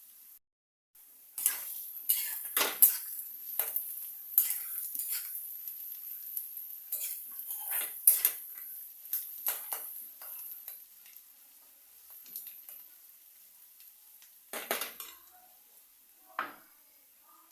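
A metal spoon scraping and clinking against a pan while stirring frying onions, over a faint sizzle. The strokes come thick and fast at first and thin out to a few scrapes near the end.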